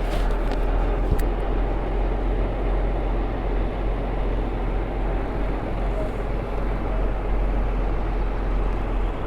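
Semi truck's diesel engine running at a steady low rumble.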